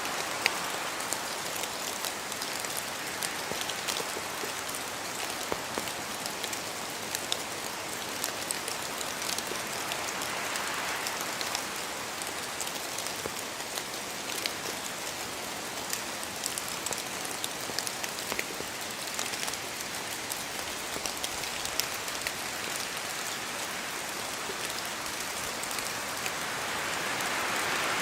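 Steady rain falling in a forest, a dense hiss with many single drops pattering and ticking on leaves, swelling briefly around ten seconds in and again near the end as gusts pass.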